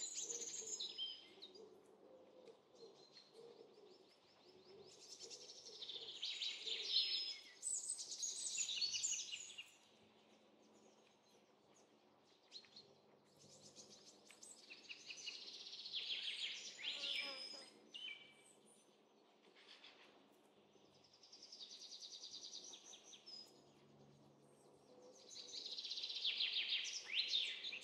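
Small songbirds chirping and trilling in short bouts every few seconds, faint, with quick pitch sweeps between the calls.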